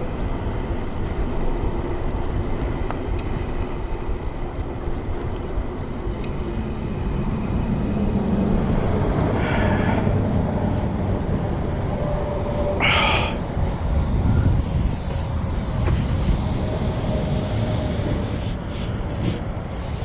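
Wind rushing over an action-camera microphone, with tyre and road noise from a Trek FX+ pedal-assist e-bike being ridden on a tyre that is going flat. There is a brief higher-pitched sound about thirteen seconds in.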